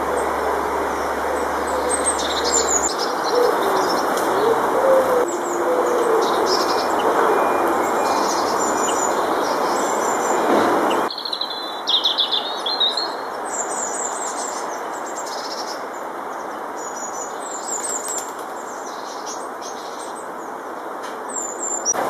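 Small garden birds chirping and calling, with short high chirps and trills and a louder burst of chirps a little past halfway, over steady background noise that drops about halfway through.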